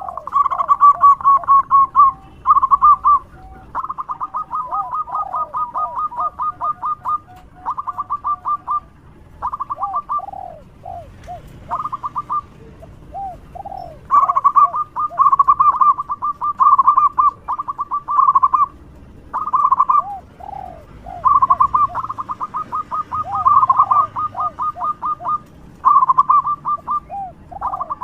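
Zebra dove (perkutut) singing its loud song: repeated phrases of rapid staccato cooing notes, each phrase a second or two long, with lower rolling coos between phrases.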